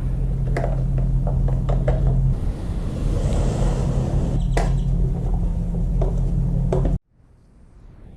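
Scattered short clanks and clicks of tools and parts being handled on a motorcycle during disassembly, over a steady low hum. The sound cuts off abruptly about seven seconds in.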